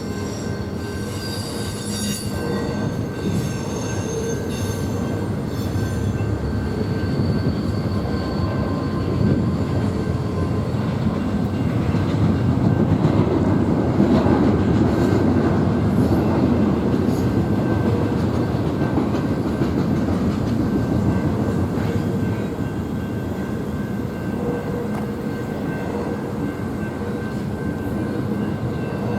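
Train rolling past on the rails, a steady rumble of wheels and cars with thin, high wheel squeal over the first few seconds; it is loudest about halfway through.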